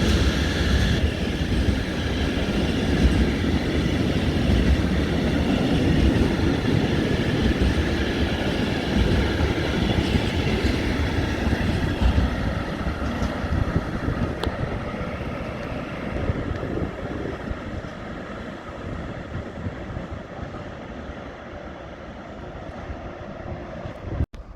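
A train running on the rails and moving away, its noise slowly fading over about twenty seconds, then cut off abruptly near the end.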